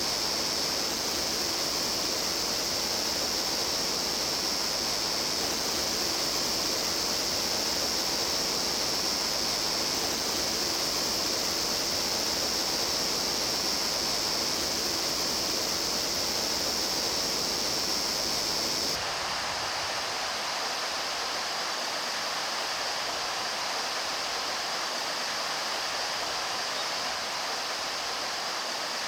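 Stream water flowing steadily, a constant rush. About two-thirds through it cuts abruptly to a thinner, lighter water sound with less low rumble, as from a different stretch of stream.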